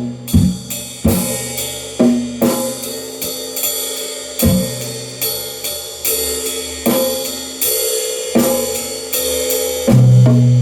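Drum kit played freely, with a strike about every half second and cymbals ringing over the hits. A heavier, louder low drum tone comes in near the end.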